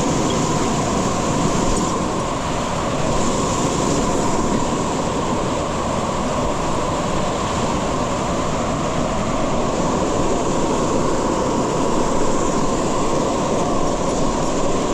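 A waterfall pouring close by, a steady unbroken rush of water.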